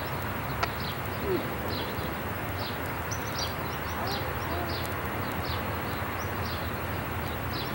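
A bird chirping over and over: short, high, falling chirps about two a second, over a steady background hiss and low rumble.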